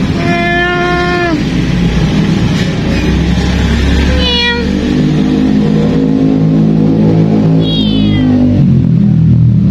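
A cat meowing three times: a long, level meow first, then two shorter meows that fall in pitch. Under them runs a steady low mechanical hum, like an engine running.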